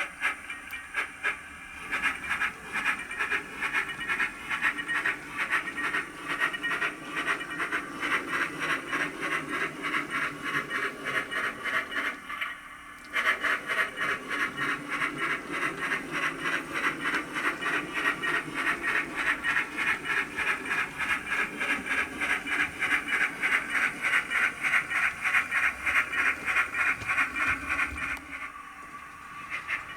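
Soundtraxx Econami UK Steam DCC sound decoder in a Hornby OO gauge BR Class 9F model playing rapid, even steam-locomotive chuffs through the model's small speaker while the engine runs. The chuffing breaks off briefly about halfway through and dips again near the end.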